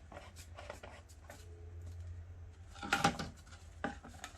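Objects being handled on a work surface: a few light clicks and knocks, with a louder clunk about three seconds in and a sharp knock shortly after.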